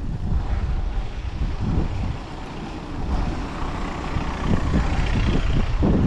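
Wind buffeting the microphone of a riding cyclist, over the sound of city road traffic. The traffic grows louder from about halfway through.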